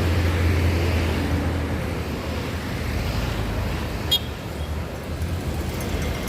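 Large bus's diesel engine running with a steady low hum, amid road traffic, with a brief sharp click about four seconds in.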